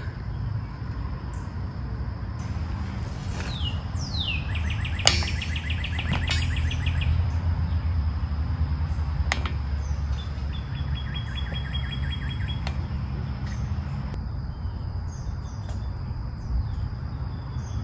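Wild birds singing: a falling whistle and then a fast trill a few seconds in, and another trill about ten seconds in. Underneath is a steady low rumble, with a few sharp clicks from hands working with pliers and small hose clamps.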